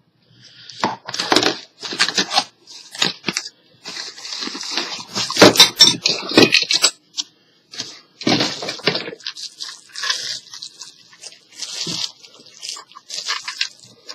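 Packaging rustling and crinkling in irregular bursts as a boxed item is unpacked, with clicks and knocks of plastic parts being handled.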